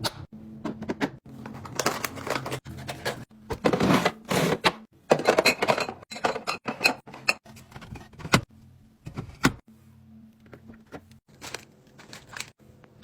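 Food packaging and containers being handled and put away in a fridge: plastic crinkling in several bursts, with clicks and knocks as items and lids are set down.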